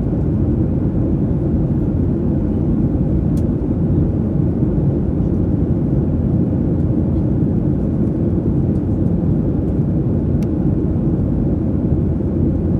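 Steady low rumble of airliner cabin noise inside a Boeing 737-800, the engines and airflow making an even, unchanging roar.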